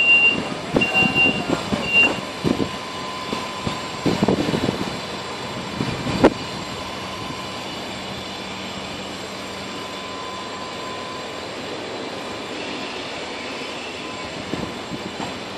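Pesa SA133 diesel railbus running steadily with a low hum. There are three short high beeps in the first two seconds, a thin steady whine for the first ten seconds or so, a few knocks early on and one sharp click about six seconds in.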